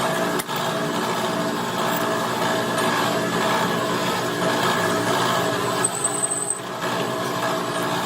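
A power tool running steadily with a constant, many-toned whine, dipping briefly about half a second in.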